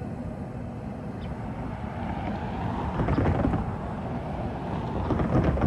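Low rumbling noise of an approaching train mixed with wind buffeting the phone's microphone at track level, swelling in two louder surges about three seconds in and near the end.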